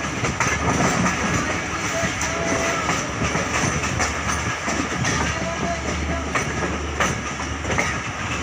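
A passenger train running along the track, heard from on board: a steady rumble and rattle of the carriage, with the wheels clacking over rail joints every second or so.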